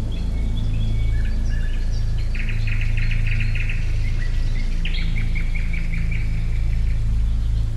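Songbirds chirping and trilling, with a quick rapid trill a little over two seconds in and another about five seconds in, over a steady low hum.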